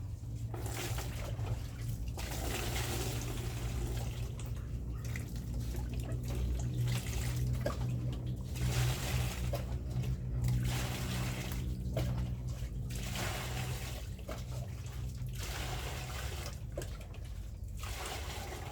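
Water running from a tap, as when washing dishes or containers at a sink, in stretches of a few seconds that break off briefly several times as the flow is interrupted. A steady low hum runs underneath.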